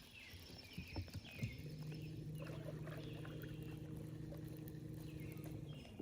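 Boat motor humming steadily, starting about one and a half seconds in and cutting off near the end. Birds chirp in the background.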